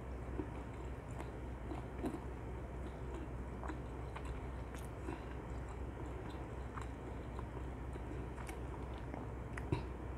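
Chewing of dakgangjeong, sticky glazed crispy fried chicken, picked up close by a clip-on microphone, with scattered small crunches and wet mouth clicks over a steady low hum.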